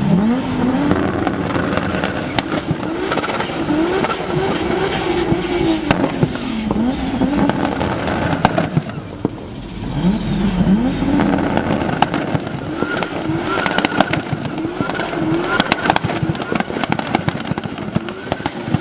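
Toyota Supra's single-turbo 2JZ straight-six revving again and again, its pitch climbing and falling, with many sharp exhaust pops and bangs between the revs, typical of a 2-step launch limiter.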